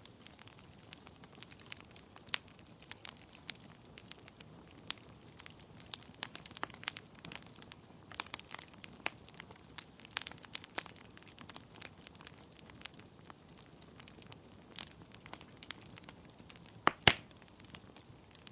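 Wood logs burning in a fireplace, crackling with irregular snaps and pops over a soft hiss of flame, with one louder pop near the end.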